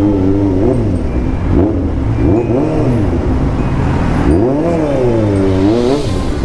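Suzuki GSR750's inline-four engine running under way, its pitch rising and falling several times as the throttle is opened and eased off, with a strong swell about two thirds of the way through.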